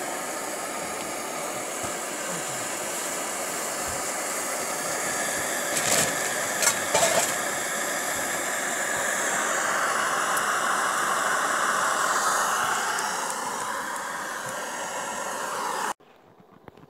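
Gas camp stove burner hissing steadily, with a few sharp clicks about six to seven seconds in and a swell in the rush just past the middle, then cutting off suddenly near the end.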